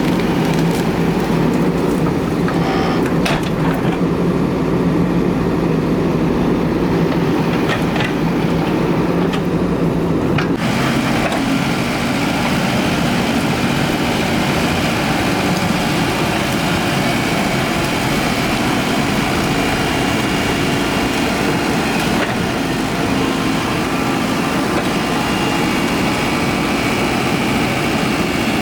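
Excavator's diesel engine running steadily under load, with a few sharp knocks in the first ten seconds. The sound changes abruptly about ten seconds in.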